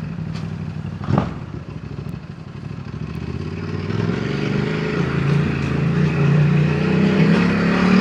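Ducati DesertX's 937 cc V-twin engine under way, with a brief sharp knock about a second in, then pulling harder and getting louder through the second half as the bike accelerates.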